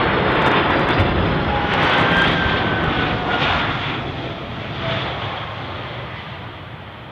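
Jet noise from a Boeing 747-400 freighter's four GE CF6-80C2 turbofans, loud at first and fading steadily as the aircraft moves away, with thin whining tones that drop slightly in pitch.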